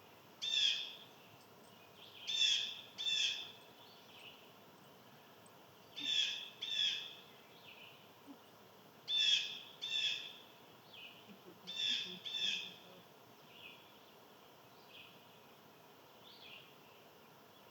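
A bird giving loud, harsh, raspy calls, mostly in pairs about every three seconds, with fainter calls near the end.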